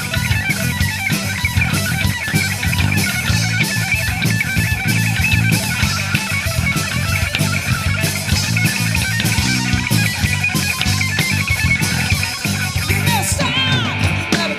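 Rock band playing live: electric guitar over bass guitar and a drum kit, at a steady, driving level.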